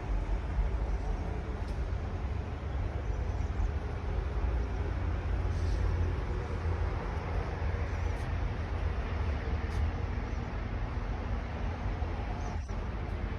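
Diesel engine of a 2020 Kenworth water truck running steadily, a deep, even rumble, with a single faint click near the end.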